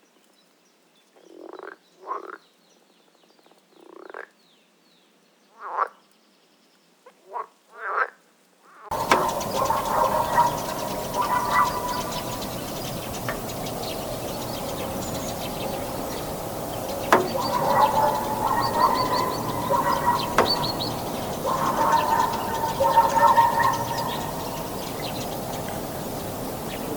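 Animal calls: about eight short, separate calls with quiet between them, then from about nine seconds a dense, continuous chorus of overlapping calls over a steady background hiss.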